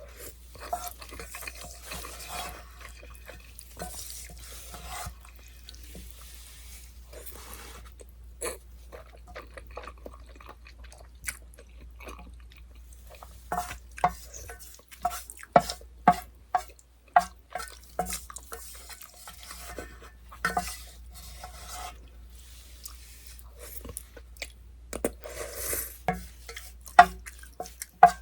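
Utensils clinking and scraping against a small aluminium pot of stir-fried noodles, in runs of sharp, ringing taps about twice a second with gaps between.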